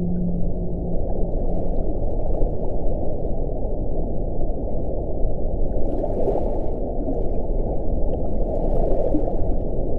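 Wind blowing steadily as a low rushing noise, swelling into stronger gusts about six seconds in and again near nine seconds. A low moaning tone fades out in the first second.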